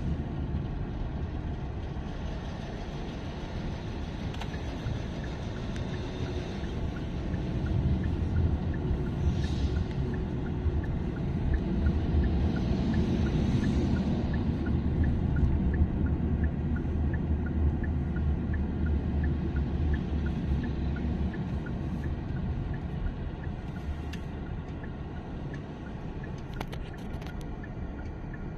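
Heavy truck engines and road traffic rumbling, growing louder for several seconds in the middle as vehicles pass, then easing off. A faint, regular ticking sounds about twice a second behind it.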